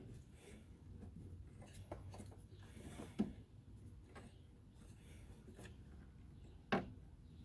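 Light clicks and rubbing from hand work on the fuel filler neck's hose fittings, with two sharper knocks, one about three seconds in and one near the end.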